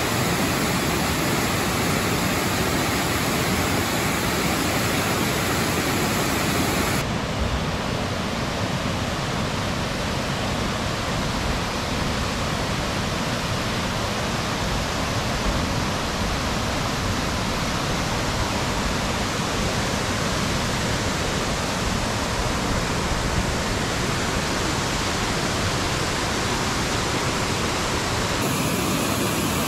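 Waterfall, a steady rush of falling water with no breaks. Its character shifts about seven seconds in and again near the end.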